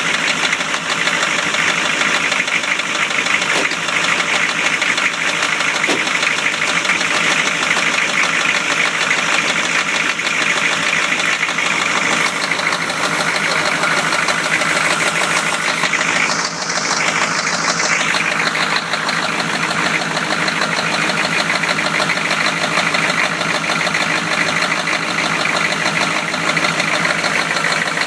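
1993 Chevrolet engine running steadily with a rapid, even knocking from the bottom end: rod knock, the sign of a worn connecting-rod bearing.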